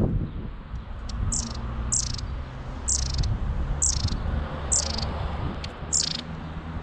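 A garden bird giving six high, thin calls that each slide downward, about one a second, over a steady low rumble.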